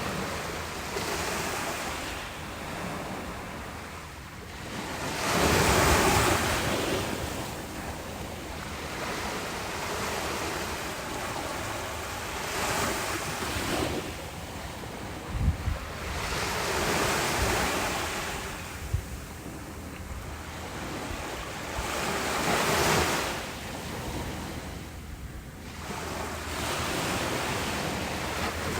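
Ocean waves breaking on a beach, the surf swelling and fading every five or six seconds, with wind buffeting the microphone in a few short low thumps.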